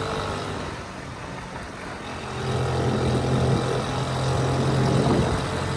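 Honda C70's small four-stroke single-cylinder engine running at a steady pitch, growing louder about two seconds in.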